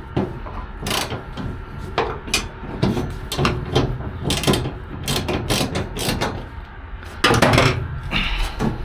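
Irregular knocks, clicks and clatter of hand tools and metal parts being handled, with a louder, denser run of clatter about seven seconds in.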